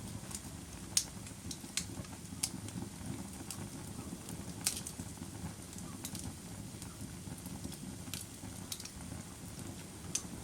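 A fire crackling: irregular sharp pops and snaps over a steady low rushing sound.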